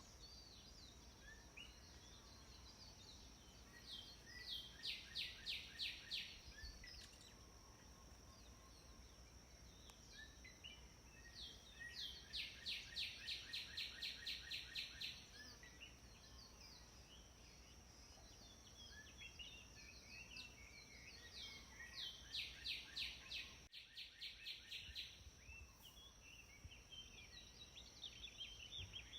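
Wild birdsong: a songbird sings a fast trill of evenly repeated notes, about five a second, three times, each lasting two to three seconds, with other birds chirping between. A steady high-pitched tone runs underneath.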